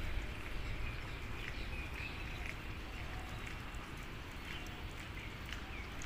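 Birds chirping in short, scattered calls over a steady low rumble of wind on the microphone.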